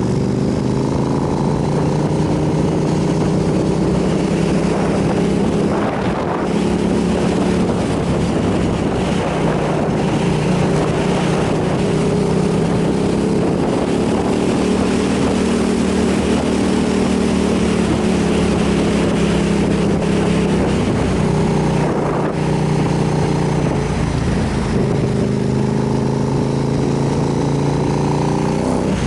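V-twin motorcycle engine running at a steady cruise, heard from on board with wind rush over it. The engine note drops and picks up again about six seconds in, and again between about twenty-two and twenty-five seconds in, as the throttle or gear changes.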